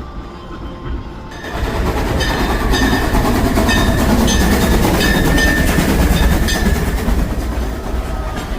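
Steam train running close by: a loud rumble starts suddenly about a second and a half in, with the wheels clacking over the rail joints roughly every half second and a thin squeal coming and going.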